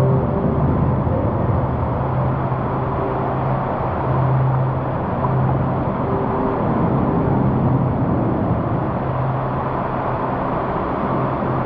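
Steady rush of moving water in a water-park river, with a low hum that comes and goes underneath.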